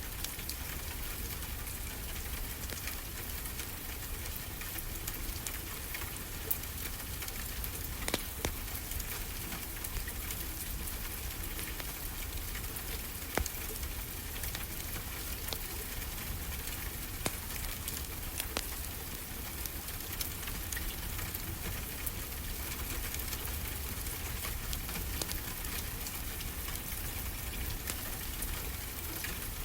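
Wood fire crackling, with sharp pops at irregular moments, over a steady wash of ocean waves with a low rumble beneath.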